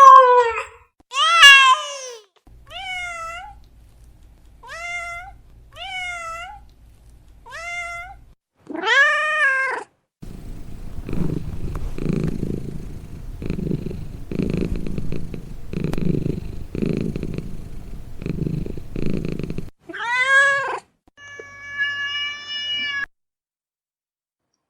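Domestic cats: a string of meows, some short and high, then about nine seconds of purring that swells and fades roughly once a second, then two more meows near the end.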